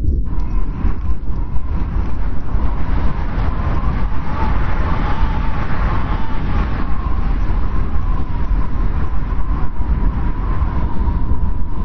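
Strong wind blowing steadily in a snowstorm, a deep rush with a thin, wavering whistle riding over it.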